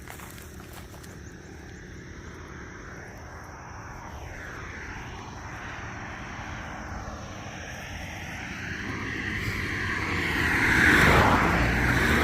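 A motor vehicle approaching and passing close by, growing steadily louder to its loudest about eleven seconds in, then starting to fade.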